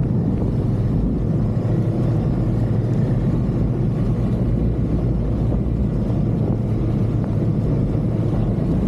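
Snowmobile engine running steadily as a low, even drone, holding one pitch without revving up or down.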